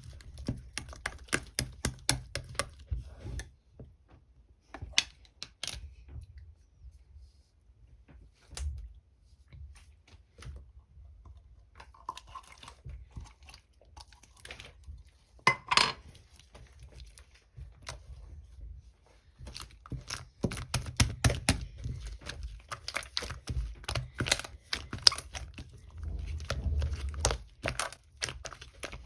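Sticky, gooey slime being squeezed, stretched and poked by hand, giving quick runs of sticky pops and crackles. The crackling comes in clusters with quieter stretches between, one louder burst about halfway through, and a dense run again in the second half.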